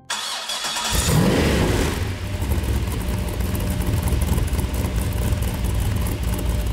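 Chevrolet LS3 V8 started by push button: about a second of starter cranking, then the engine catches with a brief rising rev and settles into a steady idle through its stainless branch exhaust and centre silencer.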